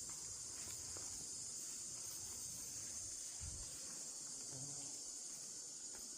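Insects making a steady, high-pitched chorus.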